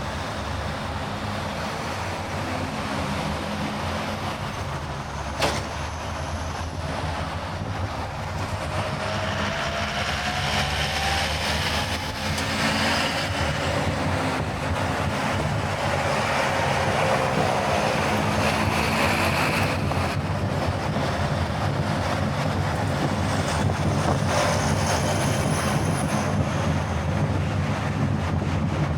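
Car driving at speed: steady tyre and wind noise that grows louder about ten seconds in, with a single sharp click about five seconds in.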